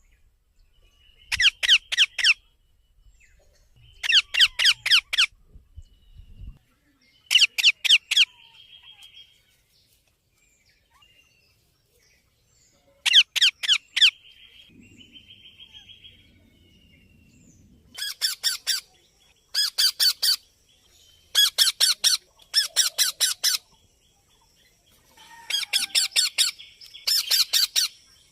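Baby parrot calling in bursts of rapid repeated squawks, each burst about a second long, with softer chattering between some of them. The bursts come more often in the second half.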